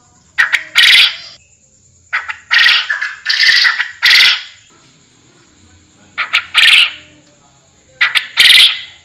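Forest quail (puyuh hutan) calling: four groups of short harsh notes, each group ending in a longer, louder note, repeated every two seconds or so with quiet gaps between.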